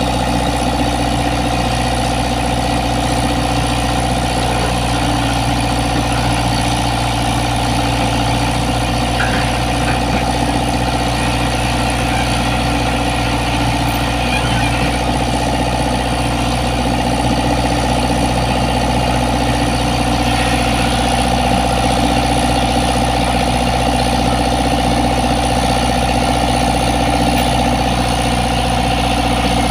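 Komatsu PC75 excavator's diesel engine running at a steady idle.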